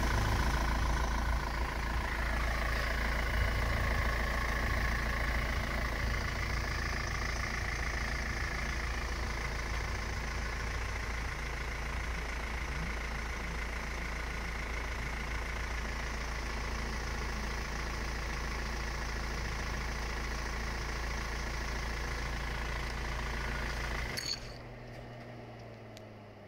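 BMW X3's engine idling steadily, with a deep rumble. It drops away abruptly a couple of seconds before the end.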